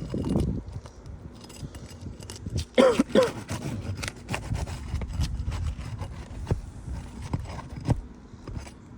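Asphalt roof shingles being pried up and their nails pulled: scraping and rubbing with scattered knocks, and a short squeal twice in quick succession about three seconds in.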